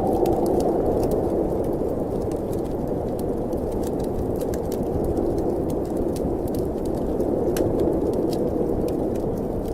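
Steady rushing wind of a snowstorm, with scattered sharp pops and crackles from a wood fire in a fireplace.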